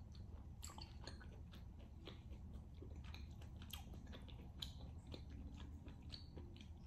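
A person chewing a mouthful of rare beef tenderloin steak: faint, irregular wet mouth clicks and smacks over a low steady hum.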